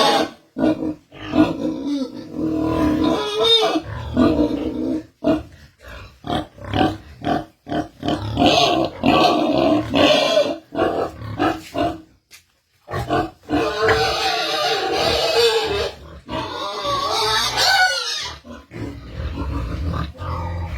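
Pigs grunting and squealing, many short calls one after another with brief pauses.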